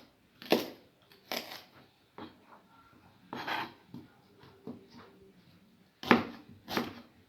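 Kitchen knife cutting vegetables into julienne strips on a cutting board: a series of separate knocks at an uneven pace, with short pauses between strokes.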